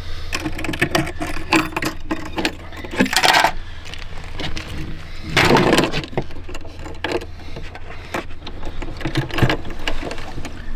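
Metallic clinking and rattling as a campervan's grey-water drain fittings are handled and opened, over a steady low hum, with two louder rushing bursts about three and five and a half seconds in.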